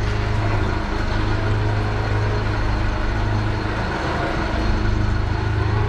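Vehicle engine running steadily under light load while reversing at low speed in first gear, with a constant low hum.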